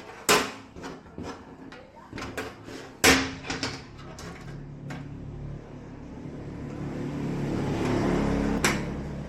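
Several sharp knocks and clicks, the two loudest about three seconds apart. Then a motor vehicle's engine hum swells, loudest about eight seconds in, with another sharp knock near the end.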